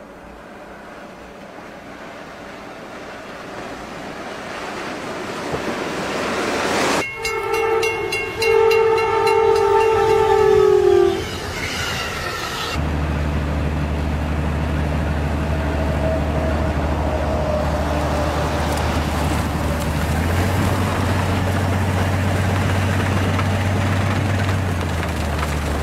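A diesel snowplow locomotive ploughing through deep snow, its rushing noise growing louder as it comes closer. It sounds two horn blasts, the second longer and dropping in pitch as it passes. After a cut, a snowplow train's diesel engine drones steadily and low, its note stepping up about twenty seconds in and falling back near the end.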